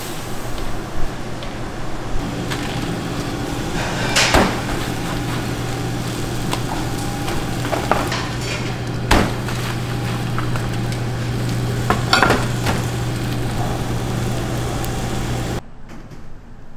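Kitchen work sounds: a few sharp metal knocks and clinks of utensils and pans over a steady low machine hum.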